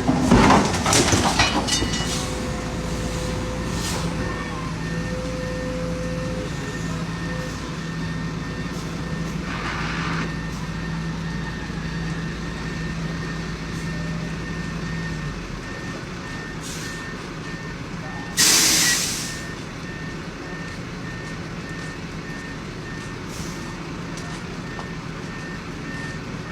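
Heavy construction machinery's engine running, with a reversing alarm beeping steadily. The engine's low rumble drops away a little past halfway, and a loud hiss of air, about a second long, comes about two-thirds in.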